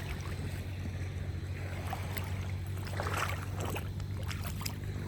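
A small engine running steadily, a low even hum with a few faint clicks over it.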